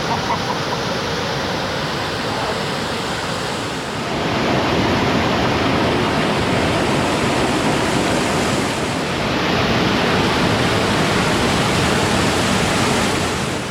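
Waterfall: a steady rush of falling water, growing louder about four seconds in.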